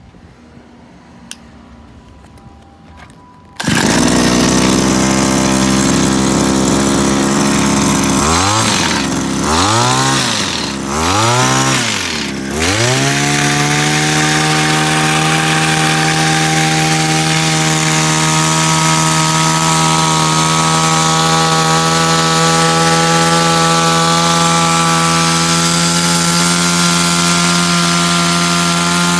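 Ochiai E7-750 engine pruning machine's small engine starting abruptly about three and a half seconds in and running at high speed. Its speed drops and rises again three times, then it holds a steady high-pitched run until it begins to slow near the end.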